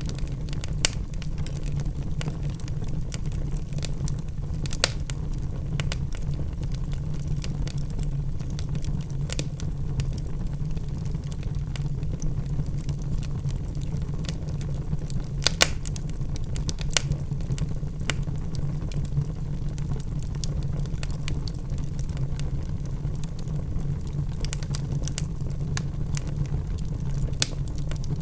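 Wood logs burning in a fireplace: a steady low rumble of flame with scattered crackles and a few sharp pops, the loudest a little past halfway.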